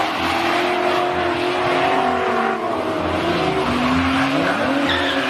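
Race car engine held at high revs with wavering pitch, under a continuous loud rush of sliding, skidding tyres, as in a drift.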